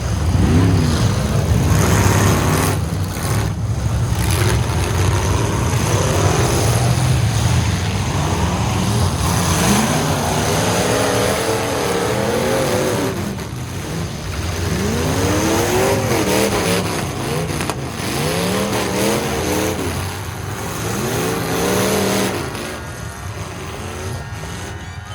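Several full-size pickup truck engines running loud and revving up and down again and again, in a demolition derby heat.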